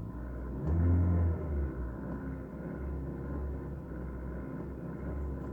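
Warm Kia Rio engine, heard from inside the cabin, blipped once about half a second in and falling back to a steady idle. As the revs drop there is a faint diesel-like knocking that the owner places near the second cylinder and cannot explain. He wonders whether it is the timing chain or a camshaft in its bearings.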